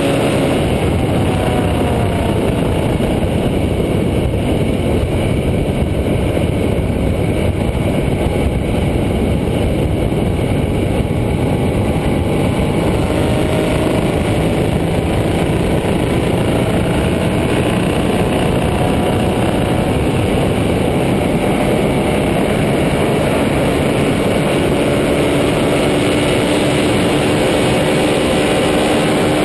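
KTM 1290 Super Duke R's V-twin engine running steadily and loudly, with heavy noise throughout; its pitch eases down near the start and climbs again near the end.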